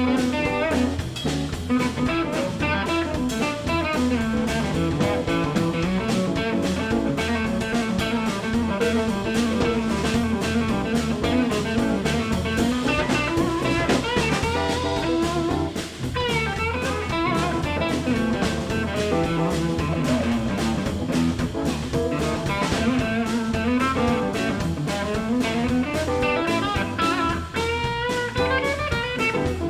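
Electric blues band playing an instrumental break, guitar to the fore with bending notes over bass, drums and keys.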